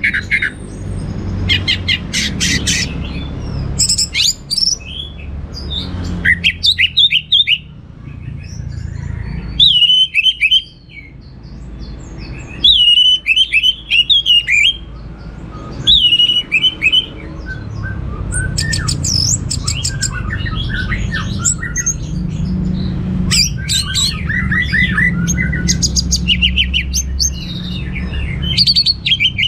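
Orange-headed thrush (anis merah) singing a long, varied song of short whistled phrases, quick trills and fast-repeated clicky notes, the rich repertoire that includes mimicked calls of other birds. A steady low rumble lies underneath.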